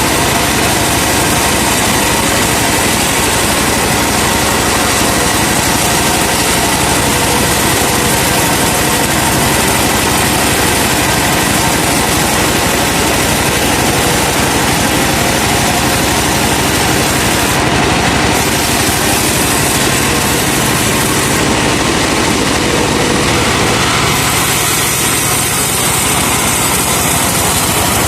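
A truck-powered sawmill running continuously: the truck's engine drives the saw, making a loud, steady machine noise throughout.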